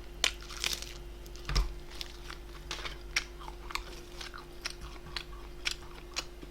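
A person chewing and biting food close to the microphone: a run of irregular wet clicks and crunches, the loudest about a second and a half in, over a steady low electrical hum.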